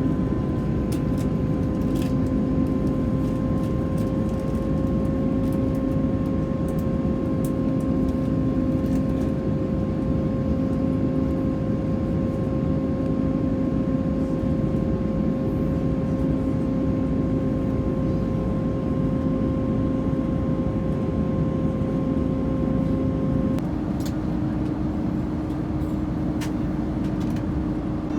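Airbus A330-300 jet engines heard from inside the passenger cabin: a steady rush of noise with a constant whine. Near the end the whine changes abruptly to a different, lower pitch, as the engine power setting changes.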